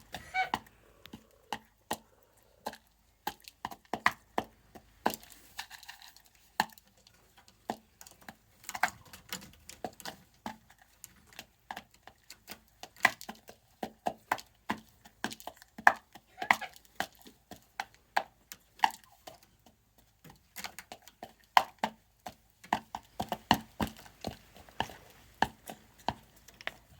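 A hen pecking grain: many quick, irregular taps of the beak, some in short rapid runs.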